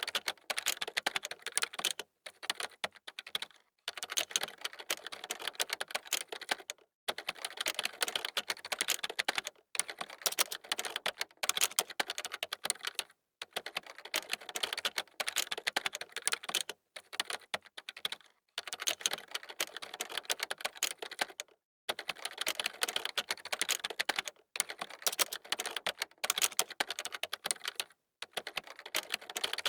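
Computer keyboard typing: fast runs of key clicks in bursts of a few seconds, each broken by a brief pause.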